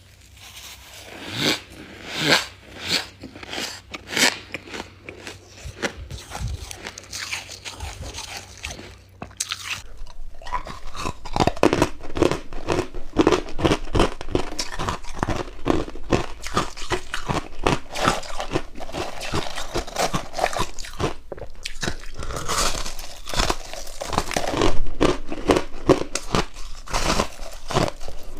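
Freezer frost being bitten and chewed close to the microphone: sharp, crisp crunches. They are scattered for the first ten seconds or so, then become dense and continuous as the chewing speeds up.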